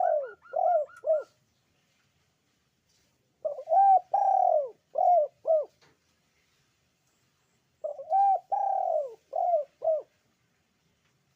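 Puter pelung dove (a Barbary dove) cooing in repeated phrases of several arching notes, each phrase about two seconds long. A phrase is ending as the sound begins, and two full phrases follow about four seconds apart.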